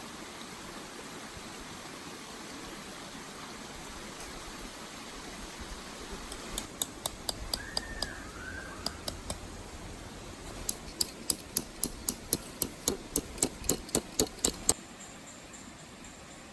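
A series of sharp knocks, first scattered and then a fast, even run of about four a second that stops suddenly.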